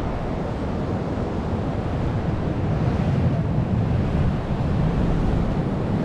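Rough ocean surf washing steadily, with wind buffeting the microphone.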